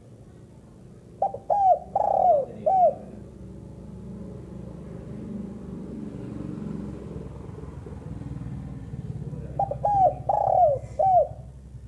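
Female spotted dove cooing: two phrases of about four short falling coos each, the first about a second in and the second near the end, over a low, steady background rumble.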